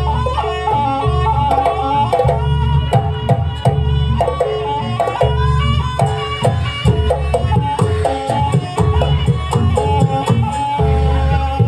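Live traditional Banyuwangi jaranan dance music: a reedy melody stepping between notes over hand drums and heavy low booms, with sharp percussive strokes.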